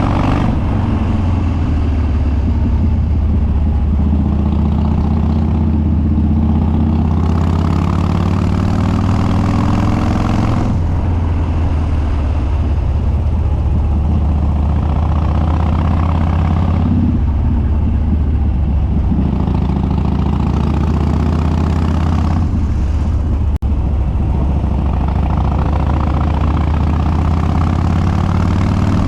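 Harley-Davidson Dyna Street Bob's Twin Cam V-twin with Stage 2 cams and unbaffled open dual exhaust, running loud under way. The engine note climbs in pitch under throttle and then drops back, about five times over, as the bike pulls through the gears or out of corners.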